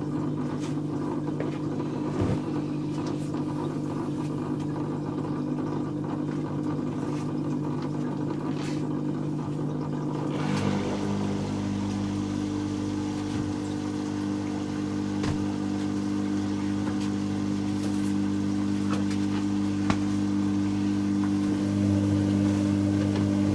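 Dyson Contrarotator CR01 washing machine running mid-cycle with a steady motor hum of several tones. About ten seconds in the hum shifts to a new pitch and grows slightly louder, and it steps up again near the end.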